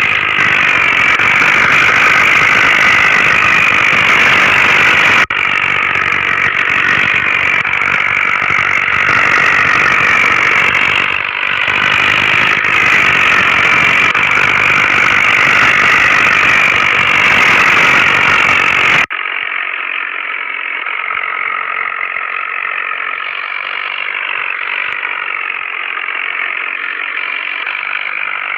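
Tractor engine running steadily. About two-thirds of the way through the sound cuts abruptly to a quieter, thinner-sounding recording of the same kind of running.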